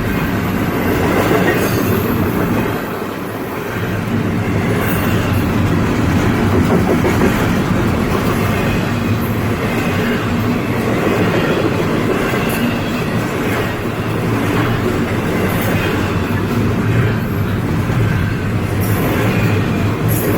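Train rolling past: a steady, loud rumble of wheels on the rails, with occasional sharp clicks.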